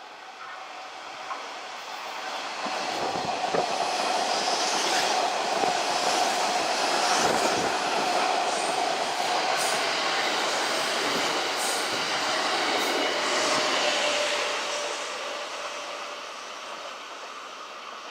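Kintetsu electric train running through the station: its sound builds over a few seconds, stays loud, then fades away near the end, with wheels clacking over rail joints and a steady whine.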